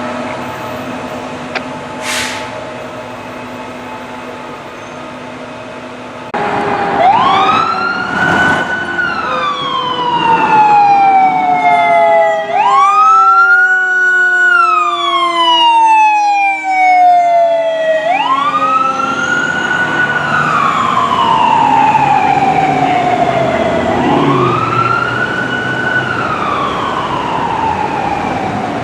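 Fire truck siren wailing in slow rising-and-falling cycles of about five seconds each, starting suddenly about six seconds in, with a slower falling tone beneath it for a while. Before it, a steady hum.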